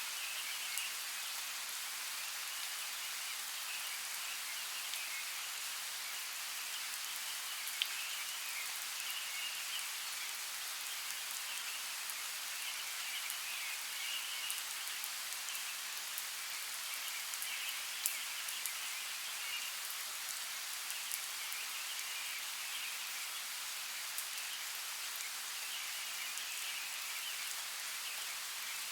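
Steady rain falling, an even hiss with scattered sharp drop ticks, the strongest about 8 and 18 seconds in. A higher chorus of calls swells and fades in patches behind it.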